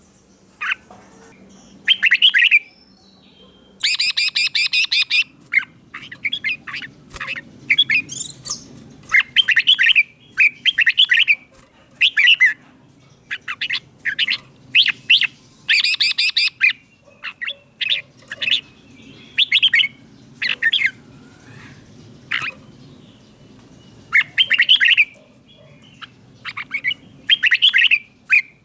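Red-whiskered bulbul singing a string of short, loud, clear whistled phrases, one every second or so with brief pauses between them.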